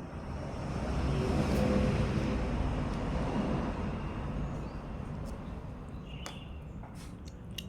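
A vehicle passing by: a broad rumble that swells to its loudest about two seconds in and then fades away.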